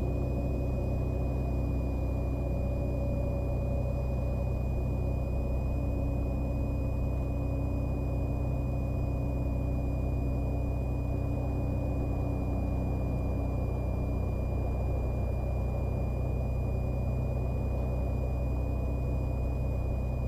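Cessna 182's piston engine running steadily at taxi power, heard from inside the cockpit as a constant low drone, with a thin steady high-pitched whine over it.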